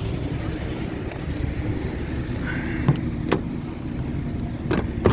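BMW 335's inline-six engine idling steadily, with a few short clicks about three seconds in and near the end.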